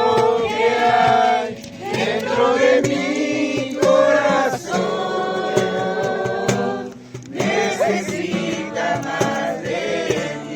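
A group of voices singing a Spanish-language Christian worship song together in long held lines, over a steady acoustic guitar accompaniment.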